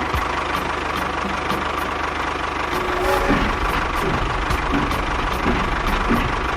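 Small engine of a DIY mini tractor running steadily with a fast, even knocking beat.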